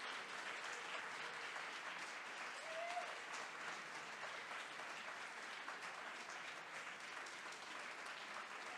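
Audience applauding, a steady patter of many hands clapping that eases off slightly toward the end.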